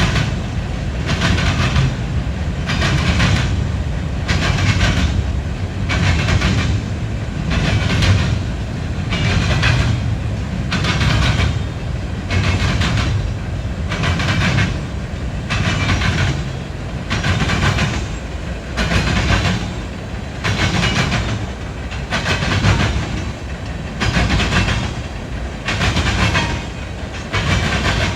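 Freight train cars rolling past, their wheels clacking over rail joints in a steady rhythm a little faster than once a second, over a continuous low rumble.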